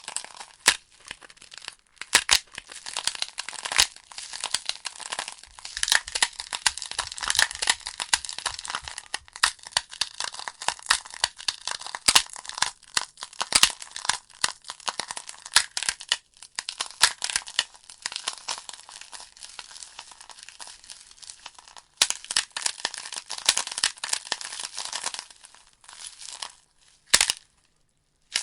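Wood fire burning in a fireplace: logs crackling and popping in dense irregular snaps over a steady hiss of flame, thinning out briefly about two-thirds of the way through and again near the end.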